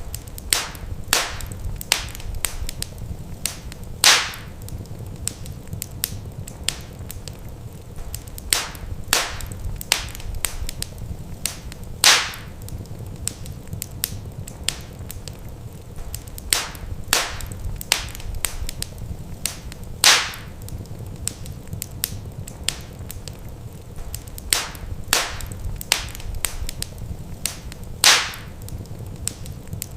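Wood fire crackling in a fireplace: a constant run of small sharp snaps and pops, with a louder pop about every eight seconds, over a low steady rumble.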